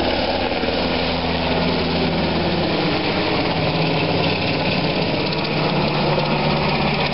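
Military helicopter's engines and rotor running steadily, with a constant low drone under dense noise.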